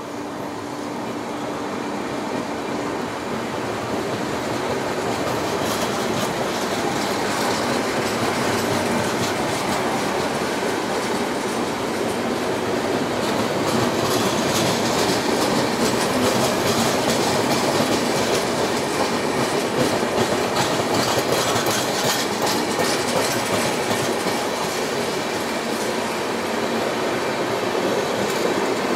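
Passenger coaches of an express train (LHB type) rolling past a platform: a steady rumble of wheels on rail with rapid clicking over the rail joints, growing louder over the first few seconds, then holding steady.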